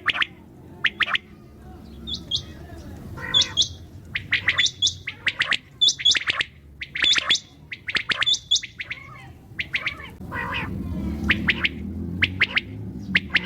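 Common quail calling: short, sharp notes, often in pairs or threes, repeated a few times a second. A low background rumble grows louder about ten seconds in.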